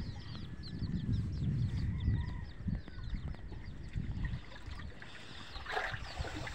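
Birds chirping rapidly and continuously, many short high calls, over a low uneven rumble; a brief louder call stands out near the end.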